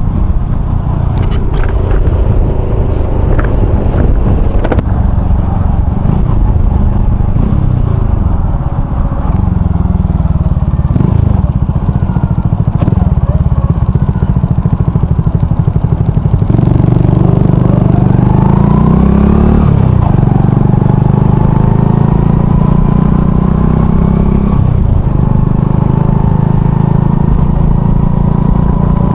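Honda Cross Cub 110's small single-cylinder engine running as the bike rides along, through an aftermarket RPM Raptor exhaust. The revs rise about two-thirds of the way through.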